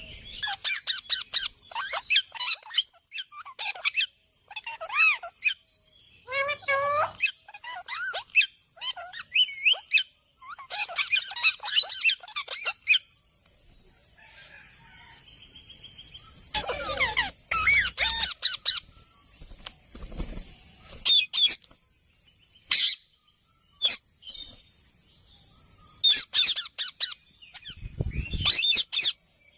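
Parrot calling in quick bursts of shrill, fast-sweeping screeches and chatter, with pauses of a second or more between bursts. A steady high-pitched hum runs underneath and gets louder about halfway through.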